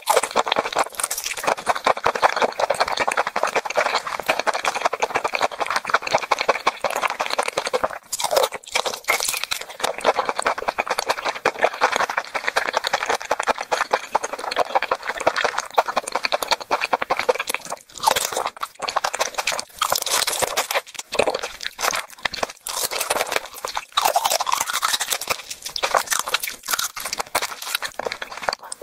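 Crunching and chewing as raw marinated blue swimmer crab is bitten and eaten: a dense run of small crackles from the shell and flesh between the teeth, with brief pauses about eight and eighteen seconds in.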